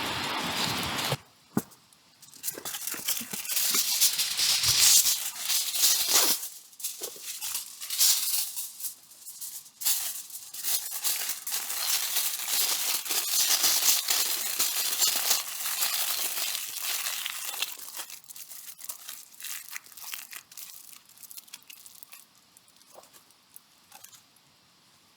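Irregular crinkling, rustling and tearing sounds, like dry material or packaging being handled, thinning out and dying away over the second half. A steady hiss fills the first second before an abrupt cut.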